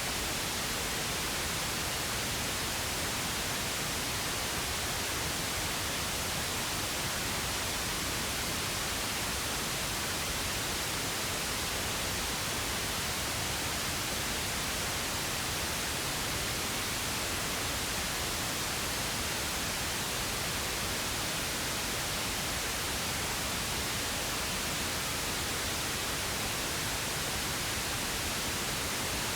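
Steady, unchanging pink noise: an even hiss spread across all pitches with no tones, changes or breaks.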